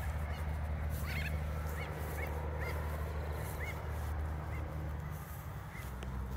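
A bird calling in short chirps, repeated every half second or so from about a second in, over a steady low rumble.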